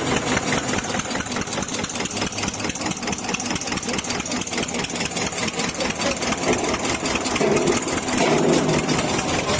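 Tractor diesel engine idling steadily, with a fast, even beat of firing strokes.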